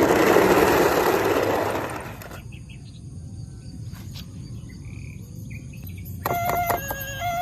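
A loud rushing hiss lasting about two seconds, then a quieter stretch; near the end a few clicks and a toy's electronic siren starts, steady beeping tones switching on and off.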